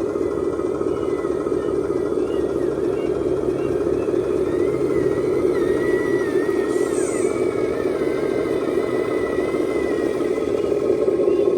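RC scale dump truck's motor and gear drive running, a steady mechanical drone with a thin whine that wavers up and down in pitch as the throttle changes.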